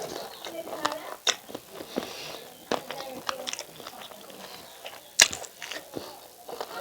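A person eating chicken curry and rice with wet chewing and lip-smacking, a series of scattered sharp clicks with a loud smack about five seconds in.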